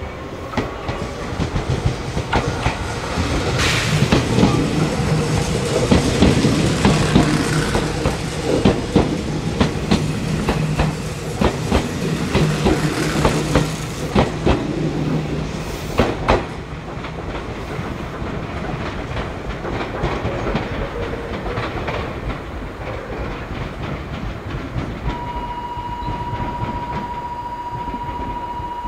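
Meitetsu electric train running past, its wheels clattering over rail joints and points, with a low steady hum under the clatter for much of the pass. The clatter eases off in the second half, and a steady high tone starts near the end.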